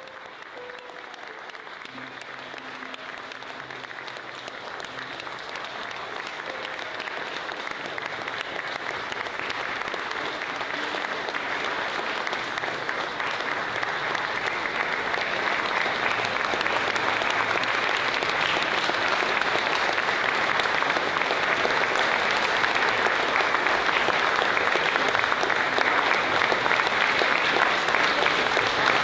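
Audience applauding, the clapping growing steadily louder throughout. A few fading instrument notes sound under it in the first seconds.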